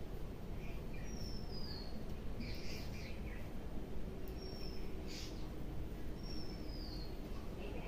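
Birds calling: a short, high, falling whistle comes three times, with a few brief rougher calls between, over a steady low background noise.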